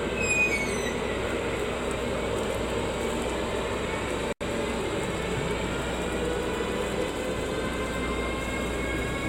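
Electric train running: a steady rumble and hiss of the wheels on the rails, with a faint rising electric whine in the second half as it picks up speed. The sound breaks off for an instant about four seconds in.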